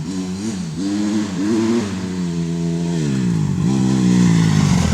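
Motorcycle engine being revved, its pitch climbing and dropping several times, with a long fall a little before the end and a fresh climb near the end.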